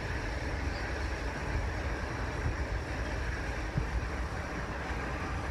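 Steady low rumble with a constant hiss above it, even throughout, with no distinct events.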